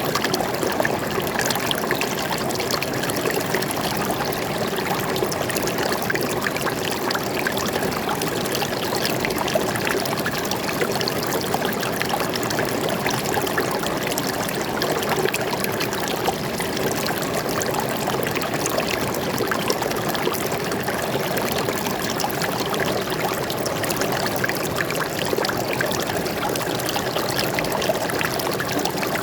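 Forest stream flowing steadily: an even rush of running water with many small trickles and splashes.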